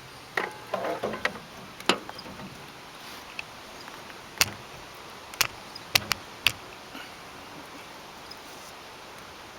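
A handful of sharp knocks and clicks, about five spread over the first six or seven seconds, from handling a just-caught fish and fishing tackle in a boat. Under them runs a steady outdoor background hiss.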